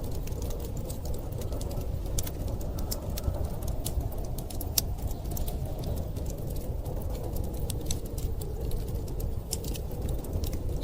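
Wood fire crackling with many scattered sharp clicks and pops, over a steady low rumble of storm wind.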